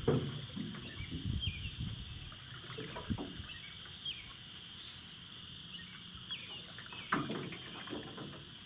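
A bird repeating a short falling chirp every second or so over a steady high hiss, with a few low rumbles that are loudest at the start and again about three and seven seconds in.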